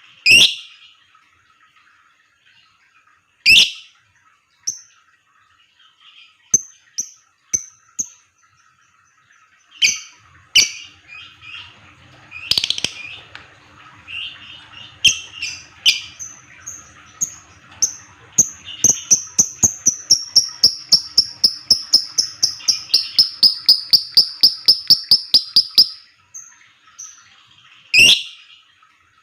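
Lovebird calling: several sharp, shrill shrieks and scattered short high chirps. Past the middle comes a long, fast chattering trill (the 'ngekek') lasting about seven seconds, its pitch easing slightly downward. The recording is meant as a lure to set other lovebirds chattering.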